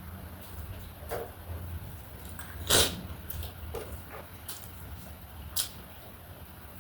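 Close-up eating sounds of panipuri, chatpate and keema noodles: a series of short crunching and slurping bursts, the loudest about three seconds in, over a steady low hum.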